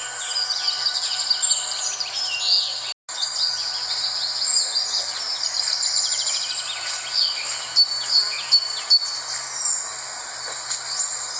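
Dense chorus of many birds chirping and trilling over a steady insect drone, with a few sharper chirps standing out late on. The sound cuts out completely for a moment about three seconds in.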